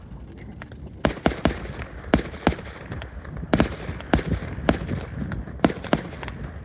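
Fireworks display: from about a second in, an irregular string of sharp bangs and cracks, roughly two a second, over a low rumble.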